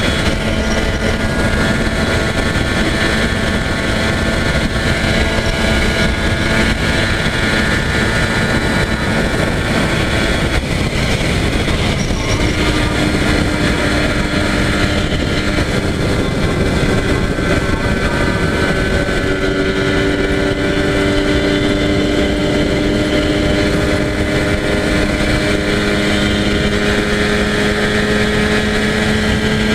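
Yamaha TZR250 (1KT) two-stroke parallel-twin engine running steadily at highway cruising speed. Its pitch dips about twelve seconds in and rises again near the end.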